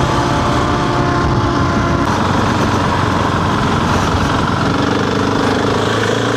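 Husqvarna 701's single-cylinder engine running steadily, its note shifting lower about two seconds in.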